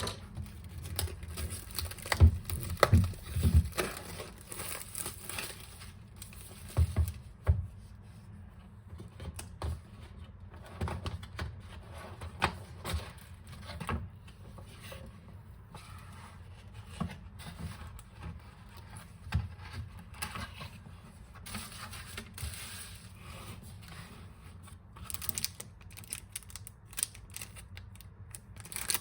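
Hands unwrapping and handling packaging: crinkling and tearing, with scattered taps and a few low thumps as the box is moved about.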